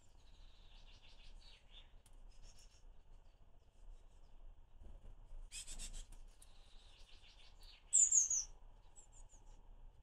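Blue tit calling: quick trains of chattering notes twice, then a few high, sharp, downward-sliding notes near the end, the loudest of them. A brief rustle about halfway through.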